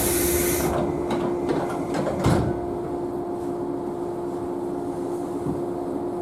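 Inside a JNR Class 113 electric train: a burst of air hiss that stops under a second in, then a few clicks and a single clunk about two seconds in, followed by a steady hum as the train sits at or pulls away from the station.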